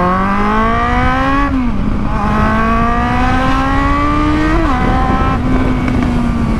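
Kawasaki Z750's inline-four engine with an open aftermarket exhaust, accelerating through the gears: the pitch climbs, drops at a shift about a second and a half in, climbs again, drops at another shift near the end, then holds steady.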